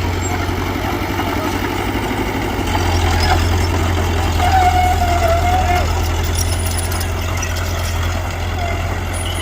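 Diesel engine of heavy earthmoving machinery running steadily, a little louder in the middle, with a brief wavering whine about four and a half seconds in.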